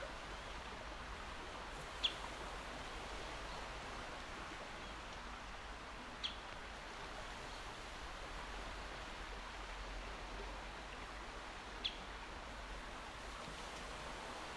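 Calm sea with a steady, even wash of water and no distinct breaking waves, and a bird giving three short, high chirps several seconds apart.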